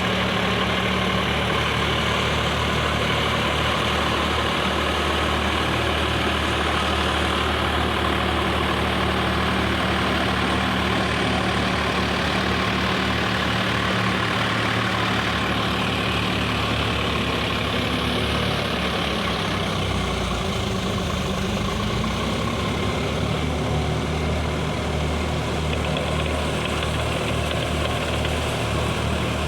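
Sonalika four-wheel-drive tractor's diesel engine running steadily, its note dipping and settling at a new pitch about twenty seconds in.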